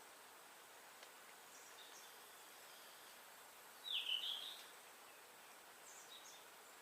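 Forest ambience: a faint steady hiss with a few faint high bird chirps, and one louder bird call about four seconds in, a quick run of notes lasting under a second.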